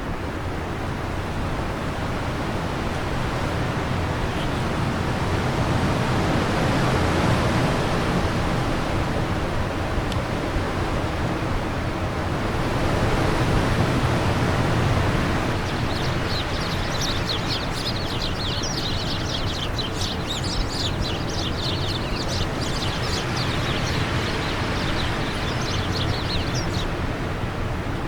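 Wind blowing in gusts, swelling and easing twice, with rapid high-pitched bird twittering through the second half.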